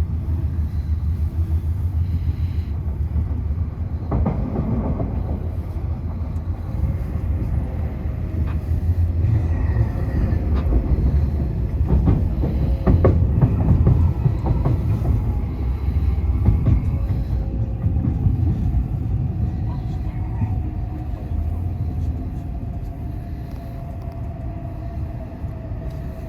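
E5 series Shinkansen train running along the platform with a loud low rumble and scattered clicks from the wheels. In the last seconds a steady tone falls slightly in pitch as the sound eases, as the train slows to its stop.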